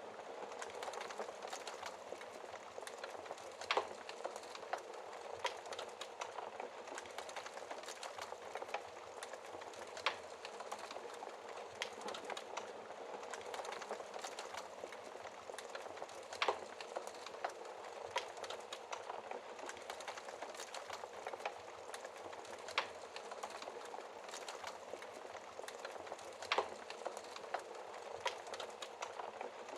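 Wood fire burning in a fireplace: a steady hiss with constant fine crackling and a sharper pop every few seconds.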